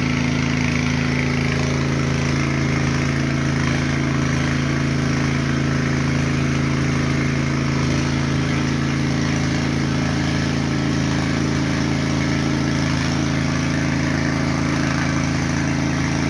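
A small engine running steadily at constant speed, a low even drone.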